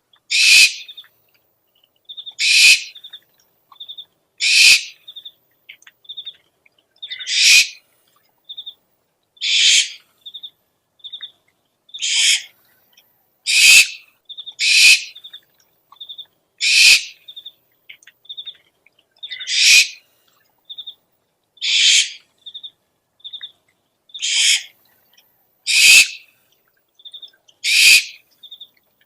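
Owl calls from an owl lure recording: a harsh, hissing screech about every two seconds, with short high pips in twos and threes between the screeches.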